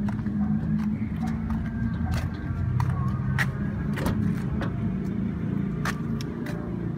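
Car engine idling with a steady low hum, with scattered light clicks and knocks as a car door is handled.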